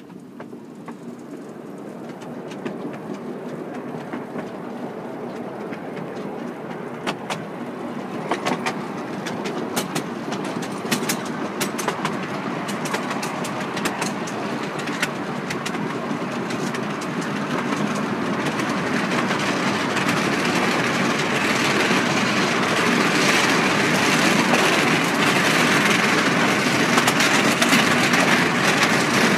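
Miniature railway train running on its track, growing steadily louder, with a run of sharp clicks in the middle.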